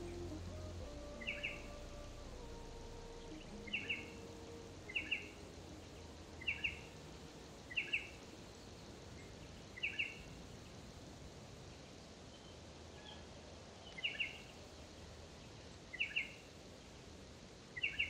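A bird calling over and over, each call a quick double chirp, repeated every one to two seconds above a steady background hiss. Soft held music notes fade out in the first few seconds.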